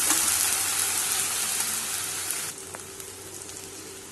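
Chopped onions and ginger-garlic paste sizzling in hot oil in a stainless steel kadai, stirred with a steel spatula. The sizzle drops abruptly to a much quieter level about two and a half seconds in.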